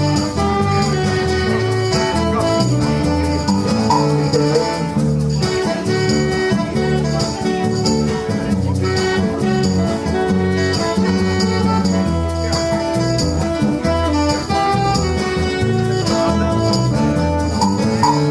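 A live band playing the instrumental introduction of a song, with guitar and bass over a steady beat.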